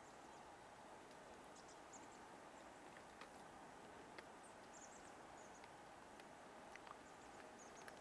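Near silence outdoors: a steady faint hiss with a few faint, very high-pitched bird chips and small clicks scattered through.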